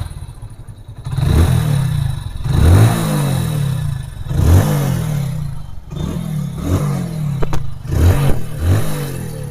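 Motorcycle engine idling and being revved in about six quick throttle blips, each a short rise in pitch that falls back to idle. The engine is running with a freshly cleaned and refitted AC pump, and the tuning sounds right to the mechanic.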